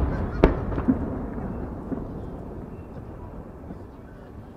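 Aerial firework shells bursting. The echoing boom of one burst dies away, a sharp bang comes about half a second in with a smaller pop just after, and the rumbling echo fades out before another loud boom right at the end.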